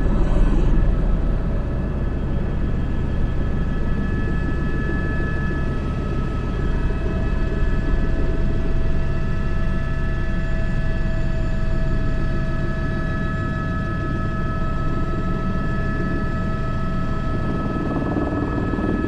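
Airbus H125 (AS350 B3) helicopter in flight: a steady rotor and turbine drone with a constant high turbine whine over it.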